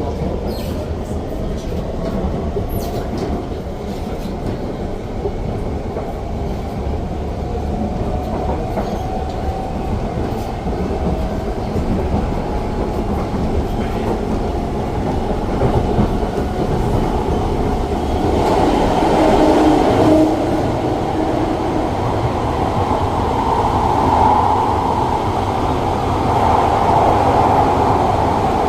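Siemens C651 metro train running, heard from inside the car: a steady rumble of wheels on rail with a clickety-clack over the rail joints. The traction motors' whine rises slowly in pitch during the first several seconds as the train gathers speed, and the running noise grows louder in the second half.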